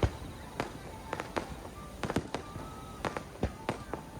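Fireworks going off in quick, irregular succession: sharp cracks and booms several times a second, the loudest right at the start.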